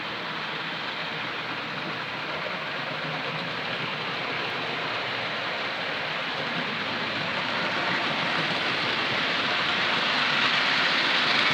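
Model railway train running on the track, a steady rattling rumble of wheels and motor that grows gradually louder, as the train comes nearer.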